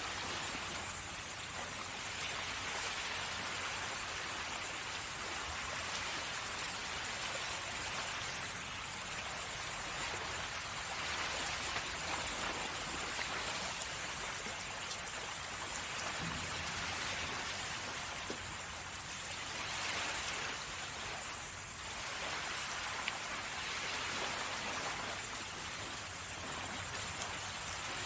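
Sea waves washing onto the shore: a steady rush of surf that swells and eases every few seconds, over a constant high-pitched hiss.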